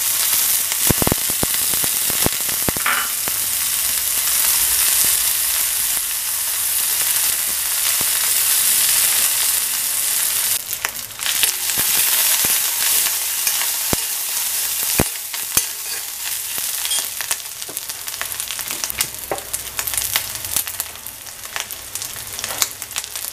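Dried prawns sizzling in hot coconut oil in a kadai, with sharp clicks and scrapes as a steel spoon stirs them. The sizzle is strongest in the first half and eases a little after about ten seconds, when the clicks grow more frequent.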